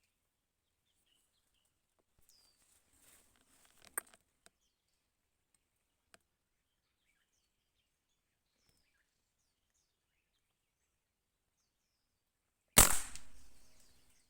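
A single sharp hunting shot near the end, the loudest thing by far, ringing out and dying away over about a second and a half. Before it come faint rustles and a sharp click about four seconds in.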